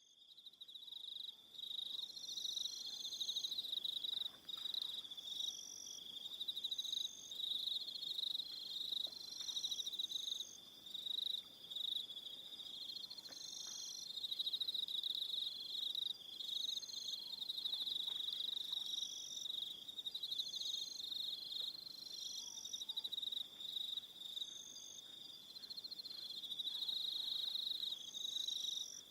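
A chorus of crickets chirping in overlapping high-pitched pulsing trills, several insects calling at once with some trills starting and stopping every second or two. The sound rises from silence in the first second.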